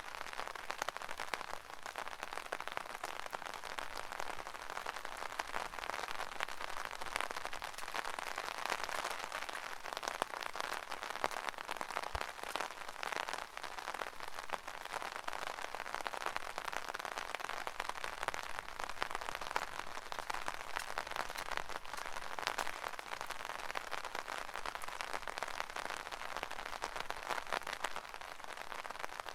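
Rain falling on an umbrella canopy: a dense, steady mass of small drop hits on the fabric, with no let-up.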